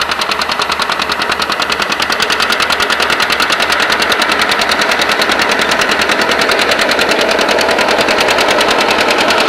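John Deere tractor engine running steadily with a rapid, even popping exhaust beat of about eight a second, growing slowly louder.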